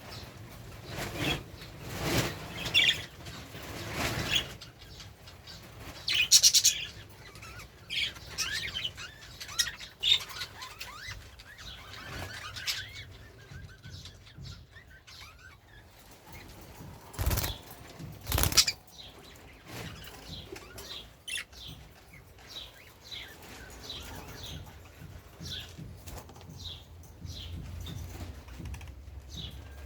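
Budgerigars flapping their wings in repeated flurries and chirping. In the second half the chirps come as short, falling notes, about one a second.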